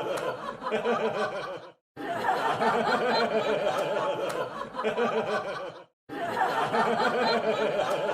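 Crowd laughing. The same short laugh recording repeats about every four seconds, cutting out to silence for a split second between passes.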